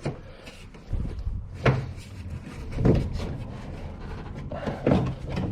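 Plastic trim panel being lifted and worked loose by hand, giving a few separate knocks and scrapes of plastic.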